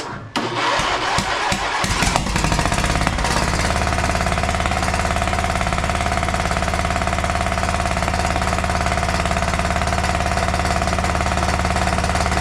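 Briggs & Stratton V-twin engine of a John Deere LA130 lawn tractor cranking on the starter, catching about two seconds in, then running at a steady speed. It is backfiring through the carburetor, which the mechanic puts down to a head damaged by overheating, blowing combustion back out past the intake valve.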